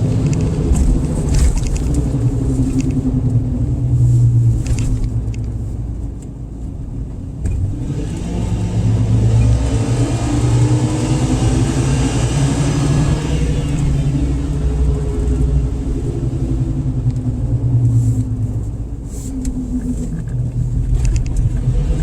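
Car engine running over a steady low road rumble; about a third of the way in it accelerates, its pitch rising for several seconds before easing back down.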